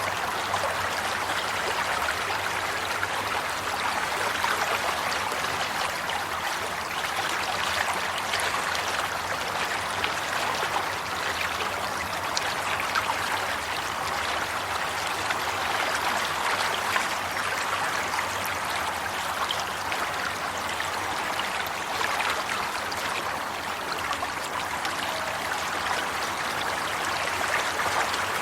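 Water flowing and trickling steadily, like a stream running over stones, with fine splashing and bubbling.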